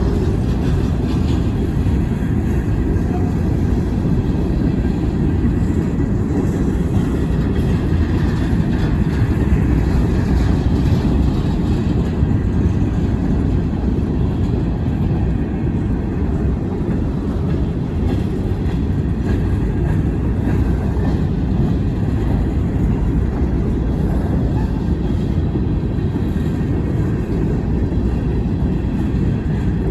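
Wheeling and Lake Erie freight train rolling past with a steady low rumble that does not change.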